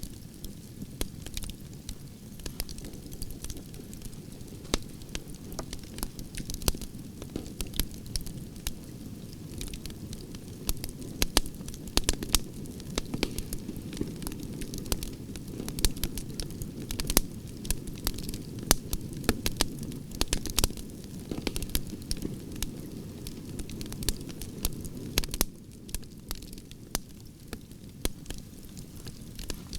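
Campfire of burning branches crackling, with frequent irregular sharp pops and snaps over a steady low rush of flames. The low rush eases slightly near the end.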